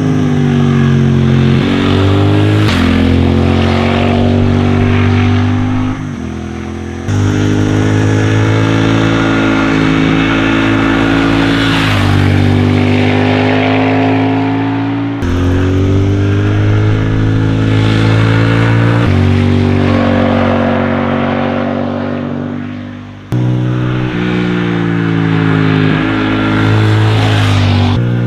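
Triumph Thruxton RS 1200 cc parallel-twin engine running under throttle, its note sagging and rising with engine speed. The sound breaks off and jumps back sharply a few times, and it goes quieter twice, about six seconds and twenty-two seconds in.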